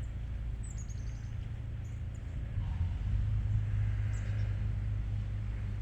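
Steady low motor hum, like a vehicle engine running nearby, growing louder about halfway through. A short, high, falling bird chirp sounds about a second in.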